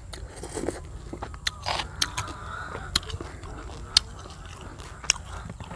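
Close-up chewing of crispy deep-fried silver carp wrapped in fresh herb leaves, with sharp crunches every second or so between softer chewing.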